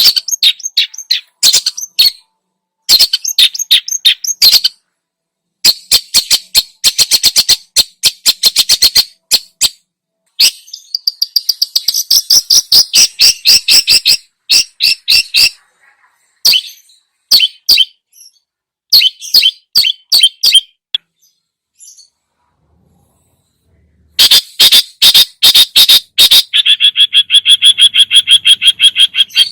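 Long-tailed shrike (cendet) singing loudly in full song, a fast varied song packed with mimicked phrases. It comes in bursts of rapid repeated notes and chattering runs, broken by short pauses and a longer pause about two-thirds through.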